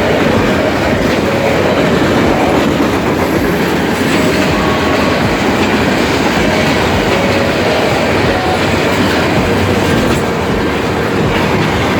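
Railroad cars rolling past a grade crossing, their wheels clattering over the rail joints in a steady loud rumble, with short faint squeals from the wheels now and then.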